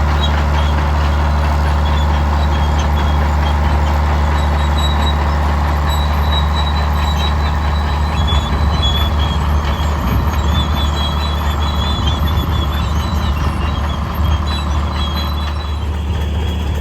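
Large antique tractor engine running steadily with a deep, low drone.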